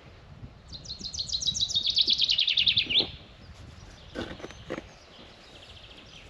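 A songbird sings one fast song: a quick run of notes falling steadily in pitch, ending about three seconds in. A few soft knocks or steps follow.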